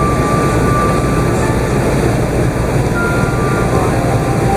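Steady cabin rumble inside the upper deck of an Emirates Airbus A380 on its landing and taxi, with the engines and airflow running. A few faint thin whines come and go over it.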